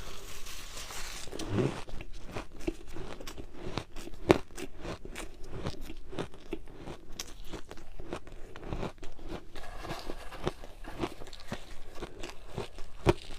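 Ice being bitten and chewed: a dense run of sharp cracks and crunches, with a few louder bites standing out.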